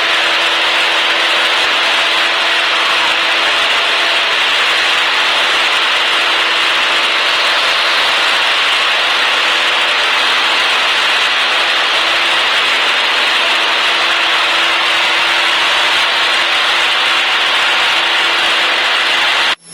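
Cessna 152's four-cylinder Lycoming O-235 engine and propeller running steadily in flight, heard as a loud even drone inside the cabin. It cuts off abruptly near the end.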